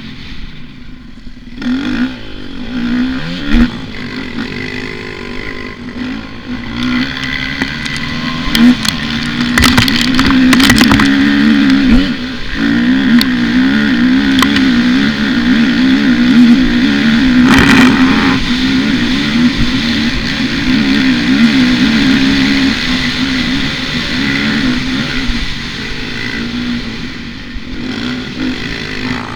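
Motocross dirt bike engine running under a rider, its pitch rising and falling as the throttle is worked, louder through the middle. A few sharp clattering knocks come about ten seconds in and again near eighteen seconds.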